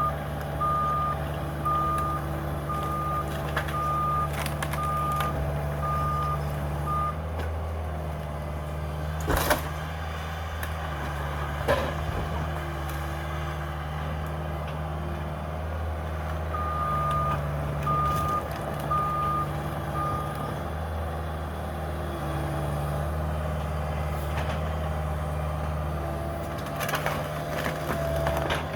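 Cat 305 excavator's diesel engine running steadily, with a backup alarm beeping about one and a half times a second in two spells. There are two sharp knocks between the spells.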